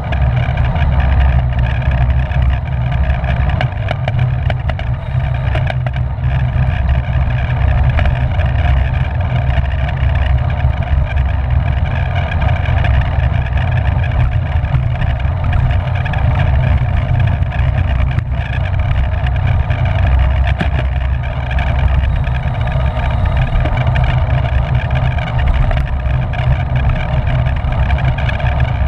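Wind roar on the microphone of a camera riding along in a bicycle race: a loud, steady low rumble with a steady hum of several tones above it.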